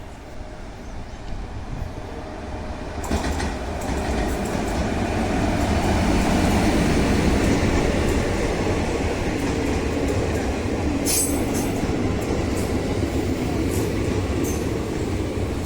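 Express passenger train running through a station at speed without stopping. The rush of wheels on rail swells about three seconds in and stays loud, with a few sharp metallic clicks near the end.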